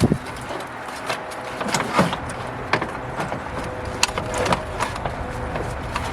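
Scattered small clicks and knocks of work on the car over a steady hiss of rain.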